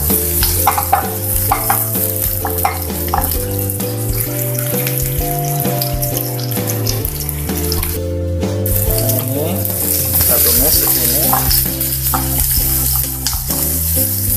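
Sliced shallots and garlic sizzling in hot oil in a frying pan, stirred with a wooden spatula that scrapes and taps the pan. Background music plays underneath.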